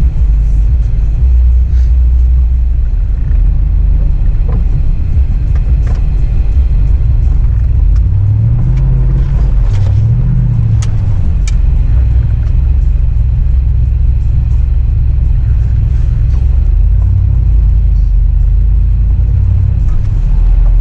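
Truck engine running with a heavy low rumble, revving up and back down twice about eight to eleven seconds in, while driving through deep snow. A few sharp clicks are heard in the middle.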